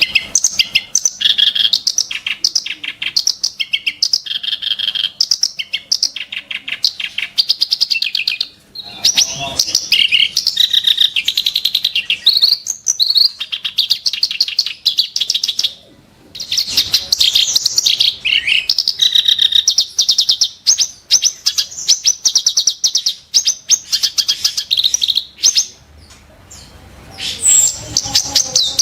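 Reed warbler singing sharp, harsh phrases of rapidly repeated notes, broken by a few short pauses.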